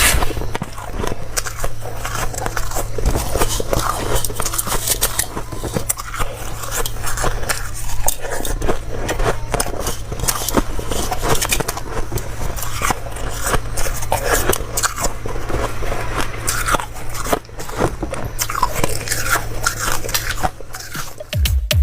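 Close-miked biting and chewing of dry, crunchy ice: dense, irregular crunching and crackling of ice breaking between the teeth, over a steady low hum.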